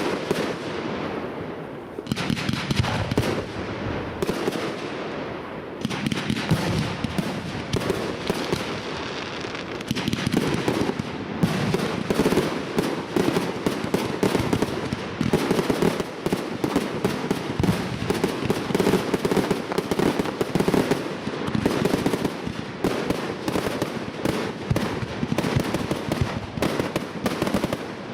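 Fireworks display finale: a dense, continuous barrage of rapid bangs and crackling shell bursts, building into a near-unbroken rattle from about ten seconds in.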